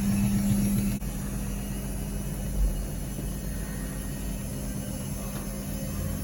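Washing machine running near the end of its cycle: a steady motor hum that cuts off with a click about a second in, then a steadier low running rumble.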